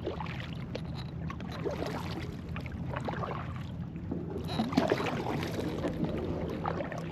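Kayak paddle strokes on calm water: the blade dipping and splashing in two spells, the second, about halfway through, the louder. A steady low hum runs underneath.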